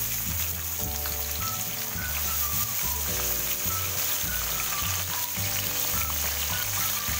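Sliced onion and garlic sizzling in hot oil with dried red chillies, a steady frying hiss, with background music playing.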